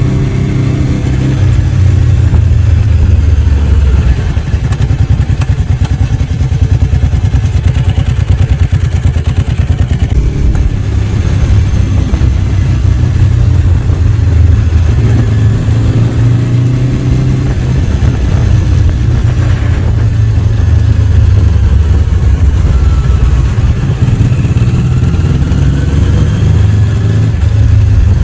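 Ducati 749's 748 cc L-twin engine running through the ride, a deep, pulsing note whose pitch shifts a few times as the revs change.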